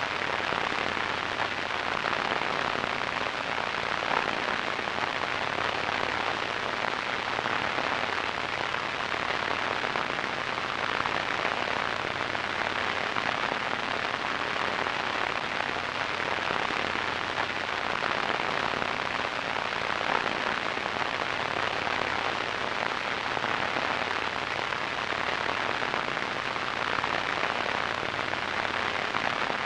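Radio static: a steady, even hiss with a fine crackle, strongest in the middle range and dull in the highest treble.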